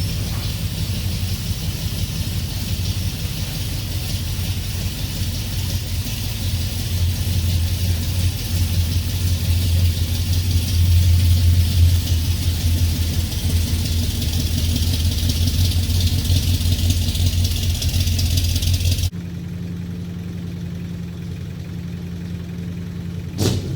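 An engine idling with a steady, pulsing rumble that grows a little louder midway. About 19 seconds in, the sound cuts abruptly to a quieter steady hum, and a single sharp click comes near the end.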